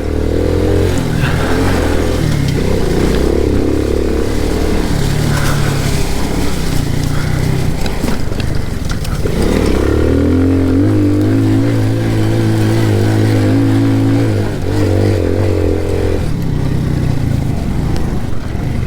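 Alfa moped's small single-cylinder engine roaring under load, its revs shifting up and down. The revs climb sharply about nine seconds in, hold high for several seconds, then drop back.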